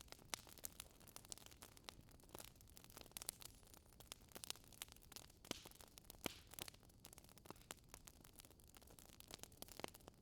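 Faint wood fire crackling in a fireplace: irregular small pops and snaps over a low hiss.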